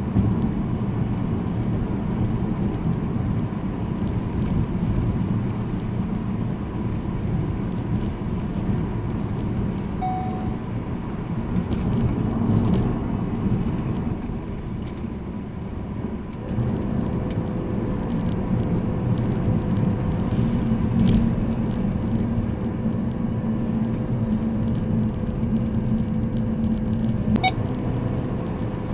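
Car driving along: steady engine and road rumble, with a faint steady whine joining a little past halfway.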